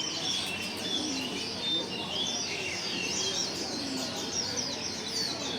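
Many songbirds chirping and twittering at once, a dense chorus of short, overlapping high calls.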